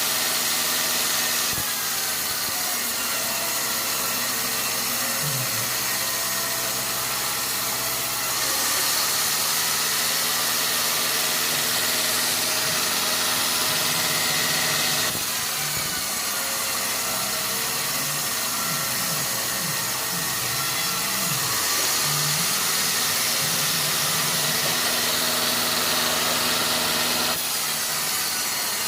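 Sawmill machinery running: a steady engine note under a constant high hiss. The engine's pitch wavers and dips for several seconds in the middle, as if under changing load, and the sound shifts abruptly a few times.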